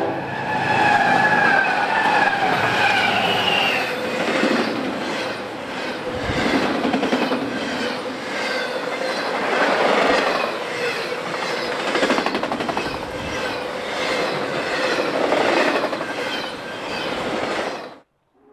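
Union Pacific Big Boy 4014's train passing close by at speed. Its multi-tone whistle trails off and drops slightly in pitch over the first few seconds, then gives way to a loud rumble and repeated clatter of wheels over the rail joints. The sound cuts off abruptly near the end.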